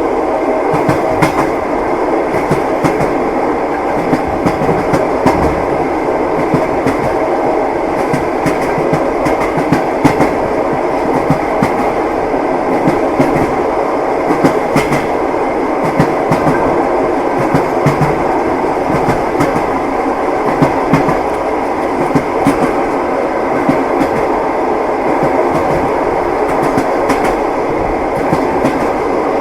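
Train wheels clattering over the rails: a steady rumble of the moving carriage with sharper knocks scattered through it.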